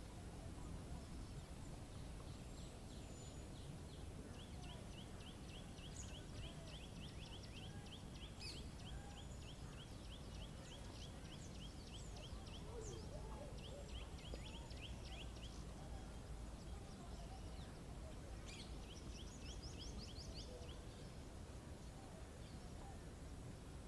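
Wild birds singing fast trills of repeated high notes over a steady low background rumble. A long trill runs from about four seconds in to about sixteen seconds, and a shorter, higher trill comes near the end.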